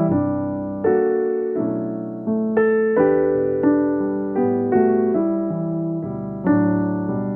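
Background music: electric piano playing a slow, gentle melody of struck chords and notes, each fading before the next.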